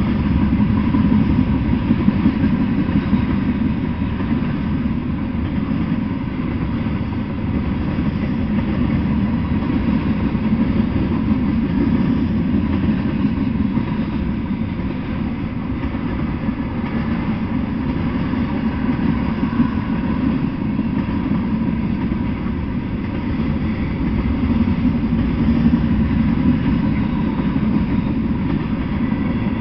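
Freight train of tank cars rolling past on the rails, making a steady low rumble.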